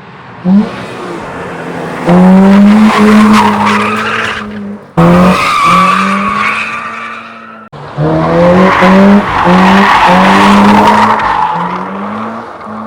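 Toyota GR86's 2.4-litre FA24 flat-four through a non-resonated Ragazzon exhaust and Eventuri intake, revved hard. After a short blip, it is held high in three long loud pulls of a few seconds each, each one cut off sharply.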